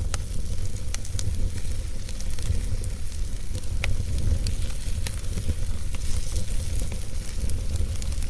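Fire crackling in a fireplace: scattered sharp pops and snaps over a steady low rumble.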